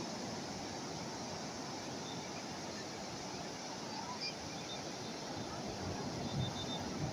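Calm sea waves washing onto the shore, a steady wash of surf with no single breaker standing out.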